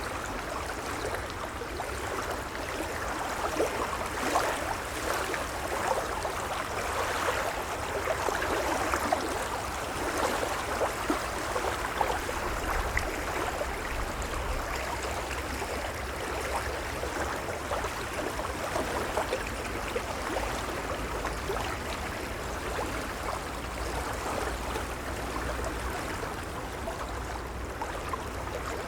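Gentle waves lapping, a continuous wash of water full of small irregular splashes, without a clear rise and fall of breaking surf.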